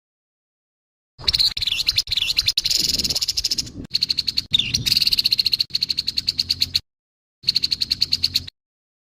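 Grey-headed babbler giving harsh, rapid rattling calls, with a few downward-sliding notes. The calls start about a second in, break off near seven seconds, and return for one short rattle near the end.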